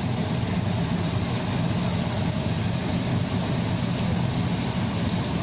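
Several Harley-Davidson police motorcycles idling steadily together.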